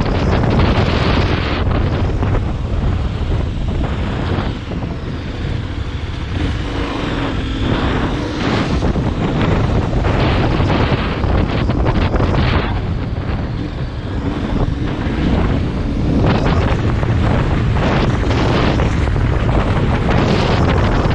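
Heavy wind buffeting on the microphone, a loud, steady rumbling hiss, easing slightly twice, with a faint steady drone beneath it.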